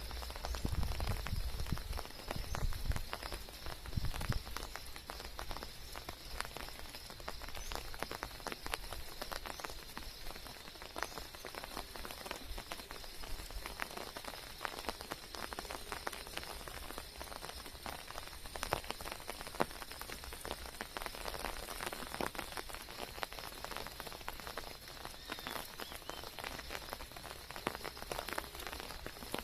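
Rain falling steadily, a dense scatter of drops striking close by, with a few low thumps in the first few seconds.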